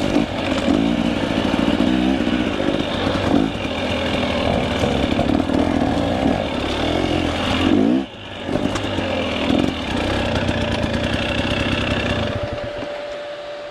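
KTM 300 EXC two-stroke dirt bike engine revving up and down under load, with a brief drop in revs about eight seconds in. It eases off to a lower, steadier note near the end.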